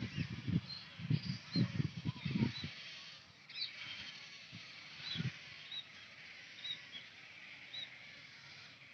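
Birds calling at a pond: many short, high chirps over a steady background of bird chatter. Low rumbling bursts run through the first three seconds or so and come once more about five seconds in.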